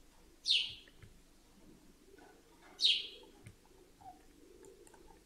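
A bird chirping twice, each a short, sharp chirp that falls in pitch, about two and a half seconds apart.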